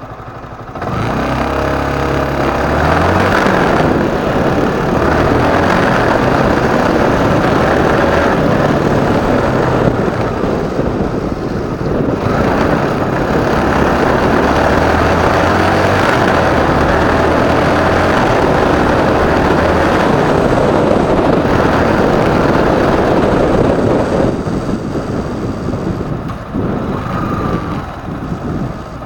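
Motorcycle being ridden, its engine pulling and changing pitch as it goes through the gears under a loud, steady rushing noise. The rush eases about five seconds before the end as the bike slows.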